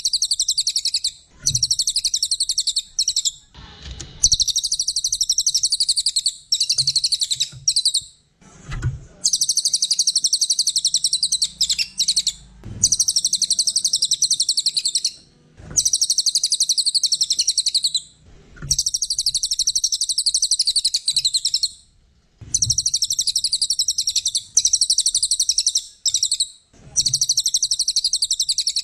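Brown cililin singing: loud, rapid, high-pitched chattering trills in bouts of a few seconds, broken by short pauses.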